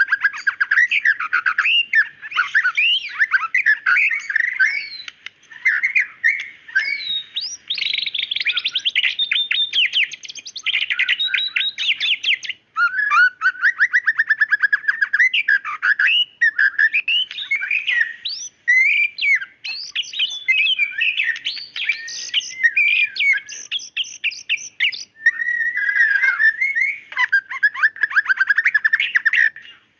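White-rumped shama (murai batu) singing continuously: a fast, varied stream of clear whistles, rapid trills and sharp, piercing notes, with brief pauses near the middle and at about 25 seconds.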